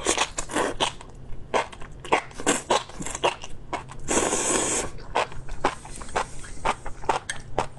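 Close-miked chewing of enoki mushrooms in chili oil: rapid wet mouth clicks throughout, with one loud slurp lasting under a second about four seconds in.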